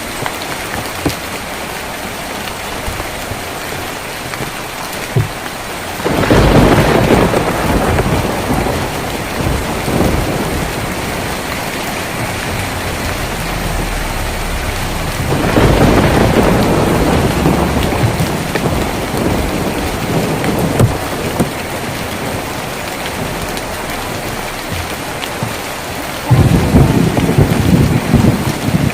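Steady rain drumming on a tin roof, with scattered sharp drop ticks. Three rolls of thunder break in, about 6, 15 and 26 seconds in, each lasting a few seconds.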